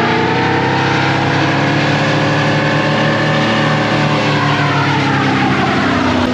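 Chevy C10 pickup's engine revving hard and held high: its pitch climbs over the first couple of seconds, holds, then sinks through the last seconds.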